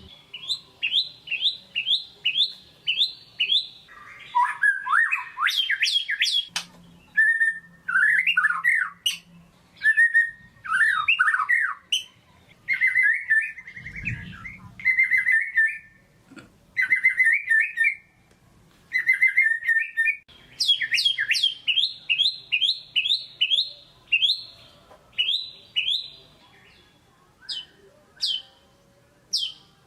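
White-rumped shama (murai batu) singing a fast, varied song. Quick strings of sharp downward-sweeping whistled notes alternate with lower warbled and trilled phrases.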